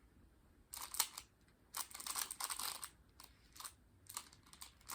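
3x3 Rubik's cube being turned by hand in quick bursts of clicking and rattling of its layers, with short pauses between.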